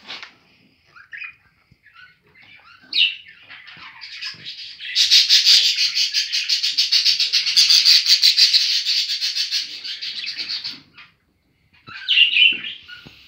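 Budgerigars chirping, then a long loud burst of rapid chattering warble lasting about six seconds, followed by a few more short calls near the end.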